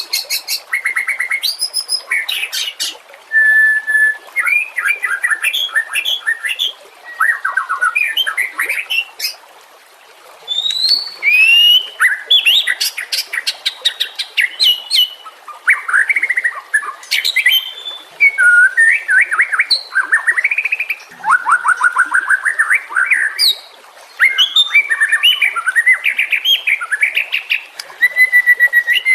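White-rumped shama singing a long, varied song of clear whistles, quick rising and falling notes and fast rattling runs of repeated notes, phrase after phrase with short pauses between them.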